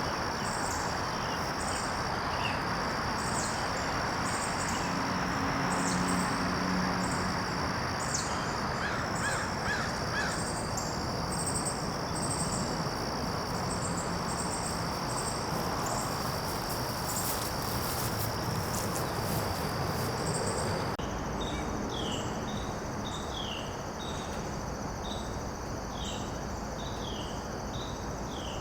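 Steady chorus of insects chirring, with a regular pulsing beat high up, over an even background hiss. A few short bird calls come through, and about three quarters of the way in the sound changes abruptly to a run of quick, repeated chirps.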